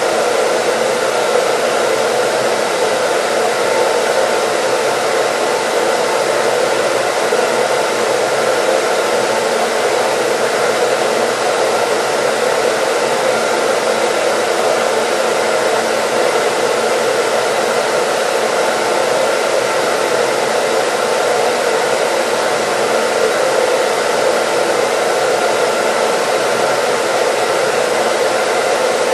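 Hair dryer running steadily, an even, unchanging whooshing hiss with a faint steady hum in it, played as continuous white noise.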